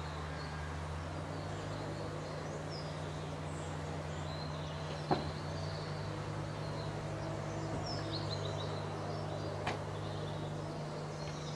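Small birds chirping and trilling in short high phrases over a steady low hum, with a sharp click about five seconds in and another near ten seconds.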